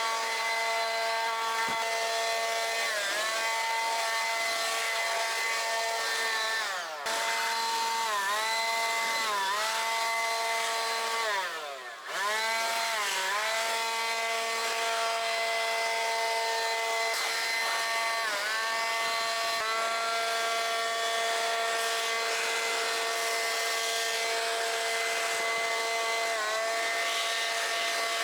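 Ryobi 40V cordless leaf blower running with a steady high whine, blowing rinse water off a car. Its pitch sags and recovers several times as the trigger is eased, dropping furthest about twelve seconds in.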